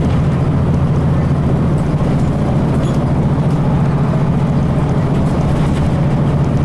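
Steady low drone of a 2002 Blue Bird transit bus's Cummins ISC inline-six diesel, heard from inside the bus while it is under way at a steady pace.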